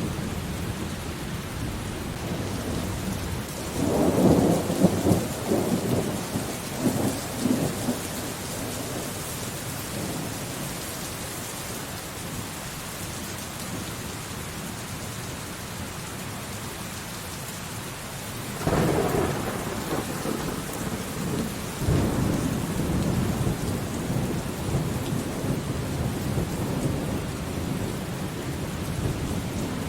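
Thunderstorm: steady rain with rolling thunder. A crackling rumble rises about four seconds in and lasts several seconds. Another breaks out near the twenty-second mark and rolls on through the rest.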